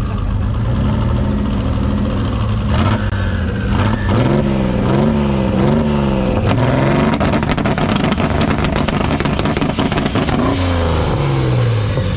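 Car engine revving, its pitch climbing and dropping several times in quick blips, then a longer rise that falls away near the end.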